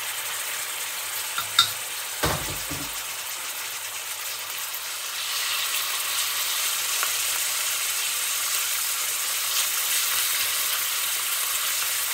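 Chopped chicken sizzling in hot oil in a stainless steel wok while being stirred with wooden chopsticks, with a steady frying hiss that grows a little louder about halfway through. A sharp click and a short dull knock come about two seconds in.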